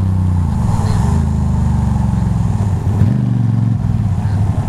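Motorcycle engine running under way. Its pitch dips briefly twice, about a second in and again near three seconds.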